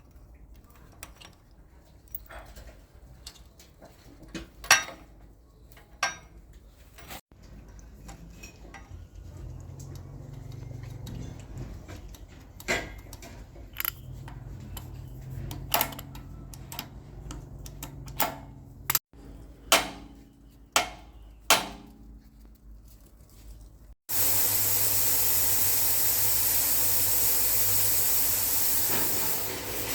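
Scattered sharp metallic clanks and knocks of tools and metal parts being handled, over a faint low hum. About three quarters of the way through, a loud steady hiss starts abruptly and carries on.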